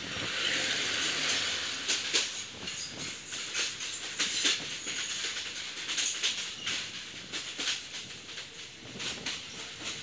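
An oncoming passenger train passing close alongside a moving train: a loud rush of noise as its front goes by in the first two seconds, then a rapid, uneven clatter of wheels over rail joints as its carriages stream past.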